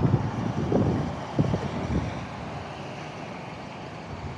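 Road traffic going past, loudest at the start and fading to a steady background hum.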